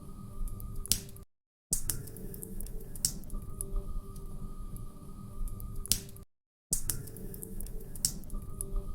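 Wood fire crackling in a fireplace: irregular sharp pops and snaps over a steady low rumble. The sound cuts out completely twice, for under half a second each time.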